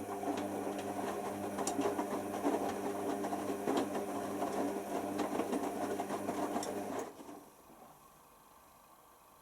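Hoover Nextra washer dryer running mid-cycle: a steady motor hum with a busy rattle over it, which stops suddenly about seven seconds in.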